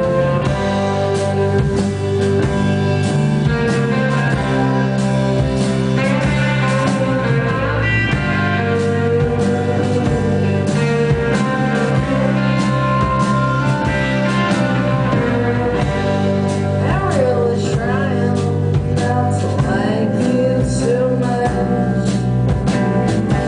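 Rock band playing live: guitar-driven rock over a steady beat, with wavering bent notes over the second half.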